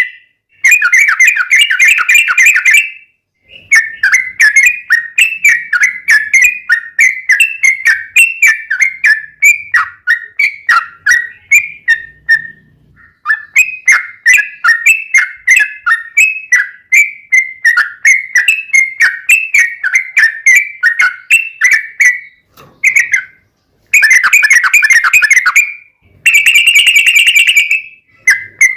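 Yellow-vented bulbul song: long, rapid runs of repeated chirping notes broken by short pauses, with dense fast trills near the start and again near the end.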